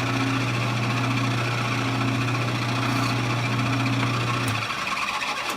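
Lathe running with a freshly drilled dowel spinning in its 4-jaw chuck, a steady motor hum with machine noise, run to check the piece for vibration; it runs smoothly. The hum cuts off near the end as the lathe is switched off and winds down.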